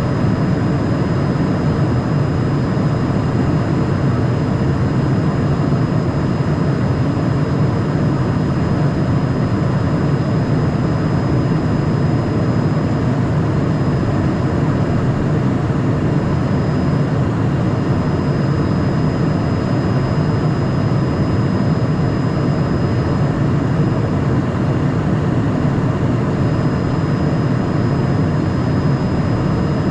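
Steady cockpit noise of a Cessna Citation Mustang in flight: a deep rush of air and engine noise from its twin Pratt & Whitney Canada PW615F turbofans, with a faint steady high whine above it.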